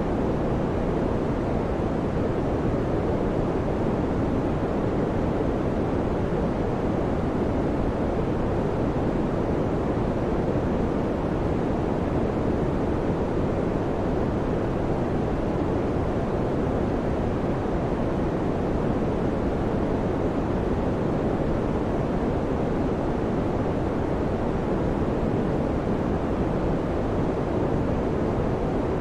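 Electric fan running steadily: a constant low, rumbling whoosh of moving air with no changes.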